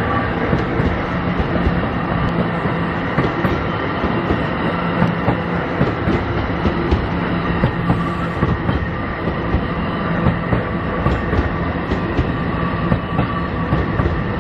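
NJ Transit Multilevel passenger train passing, with a steady rumble of wheels on rail and a continual clickety-clack of wheels over track joints.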